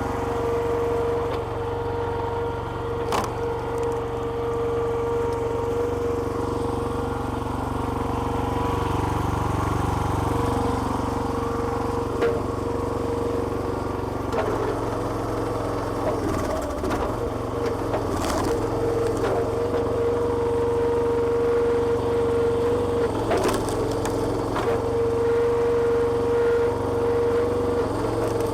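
Small petrol engine of a homemade hydraulic log splitter running steadily with a constant whine, while wood cracks sharply several times as logs are split.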